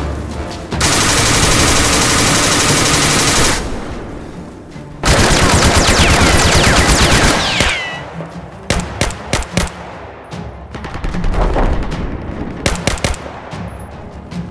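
Battle gunfire sound effects: long bursts of rapid machine-gun fire with falling whistles near the middle, then scattered single shots, with music under them.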